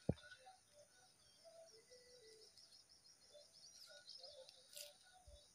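Faint birdsong: scattered short chirps and, about three seconds in, a rapid high trill of repeated notes. A low thump right at the start is the loudest sound, and a short sharp click comes near the end.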